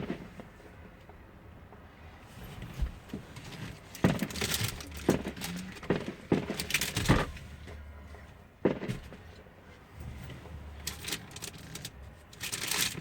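Fireworks shells bursting, a string of sharp bangs at irregular intervals, muffled by the closed car they are heard from.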